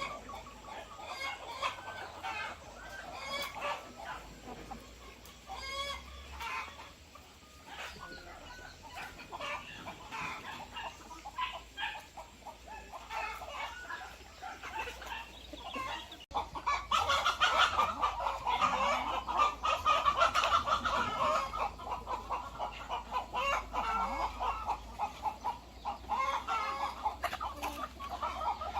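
Chickens clucking and calling over one another. The calling turns louder and denser a little past halfway.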